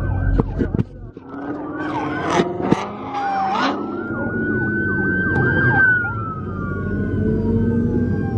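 Police car sirens sounding over the low rumble of car engines: quick yelping glides in the first half, then a slow wail that rises and falls.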